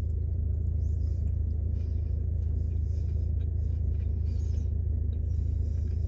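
Steady low hum of a parked car idling, heard from inside the cabin, with faint chewing now and then.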